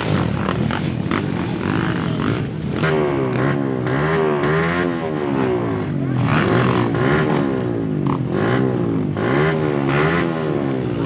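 Motocross dirt bike engine revving up and down, its pitch rising and falling about once a second from about three seconds in.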